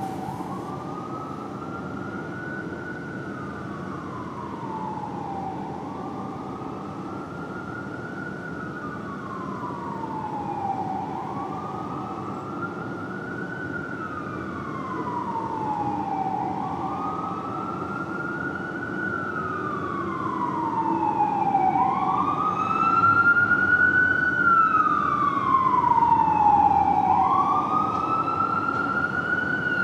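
Fire engine siren on a slow wail, rising quickly and falling slowly about every five seconds over the truck's engine rumble. It grows louder in the second half.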